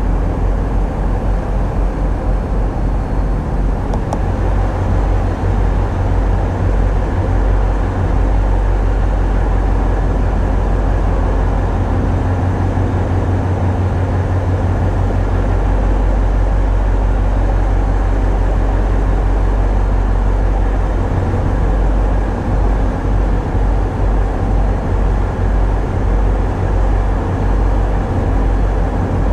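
Tugboat's diesel engines running steadily under way, a loud, heavy low rumble.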